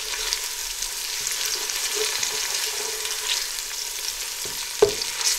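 Ginger and garlic paste and onions sizzling in hot oil in a stainless steel pot, with a spoon stirring and scraping across the bottom of the pan. A sharper clack of the spoon against the pot comes near the end.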